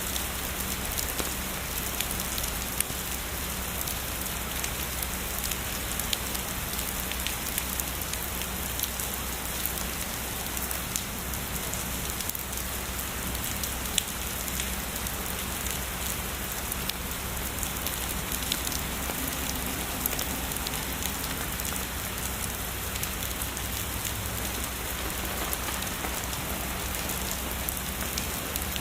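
Heavy rain falling steadily, a dense even hiss with many sharp individual drop hits ticking throughout.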